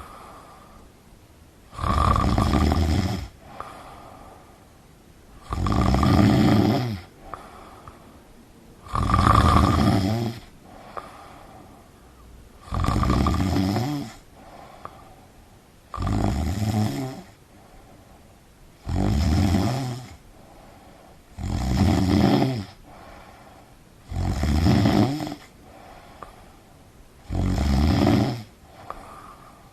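A person snoring heavily: a loud snore every three to four seconds, each lasting about a second, with faint breathing between.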